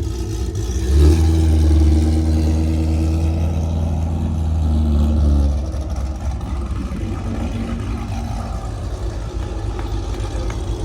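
A car engine and exhaust run loud with a deep, steady note that starts sharply about a second in and holds for about four and a half seconds before dropping back to a lower engine rumble.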